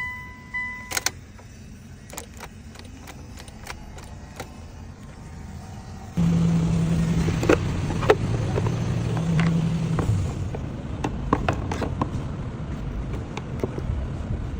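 Car with a no-crank fault started by bridging the starter with a single wire. A short beep and scattered clicks from the wire and connections come first. About six seconds in, the starter and engine cut in suddenly with a steady low whine for a few seconds, and the engine keeps running after that.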